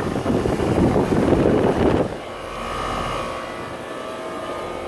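Outdoor HVAC condensing unit (air conditioner or heat pump) running: a loud, fluttering rush of fan air for about two seconds, then a quieter, steady hum with a few faint steady tones.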